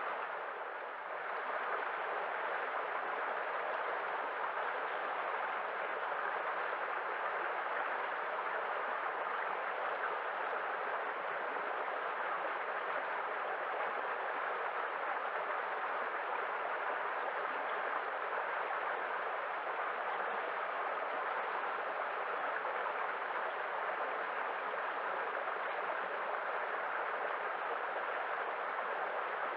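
Running water, a stream or waterfall, rushing steadily without a break.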